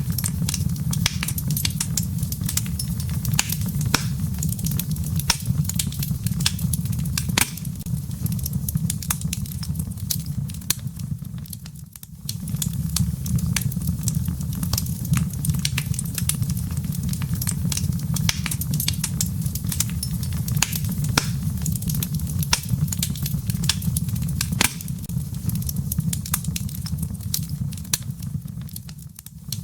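Wood fire burning in a fireplace: a steady low rumble of flames with frequent sharp crackles and pops from the burning logs. The rumble briefly drops away about twelve seconds in and again near the end.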